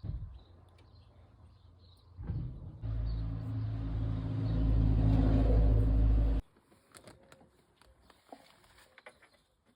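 BMW car engine running steadily for about four seconds, starting a couple of seconds in and cutting off abruptly, after a brief thump at the start; only faint light clicks follow.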